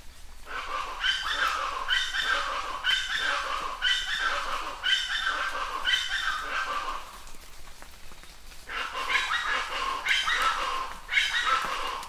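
A bird calling in a rapid series of harsh notes, each falling in pitch, about two a second. The series stops for over a second, then starts again. Rain hisses steadily underneath.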